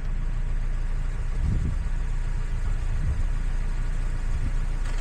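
Steady low rumble of a car in motion, engine and road noise.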